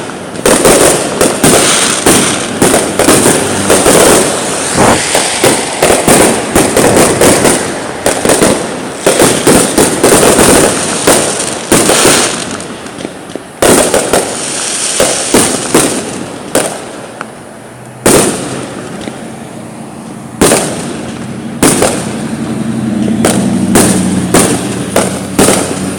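Fireworks going off: dense rapid strings of bangs and crackling for the first half, thinning to separate single bangs in the second half. A low steady hum comes in near the end.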